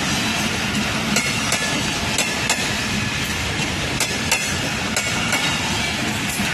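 Passenger train running along the track: a steady rumble with sharp wheel clacks over the rail joints about once a second, some coming in pairs.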